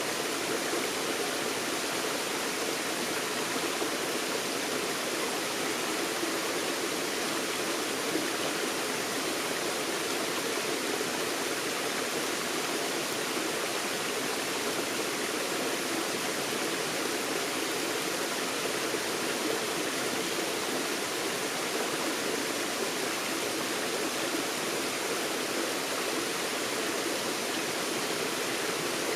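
Forest stream running over rocks: a steady, even rush of water with no breaks.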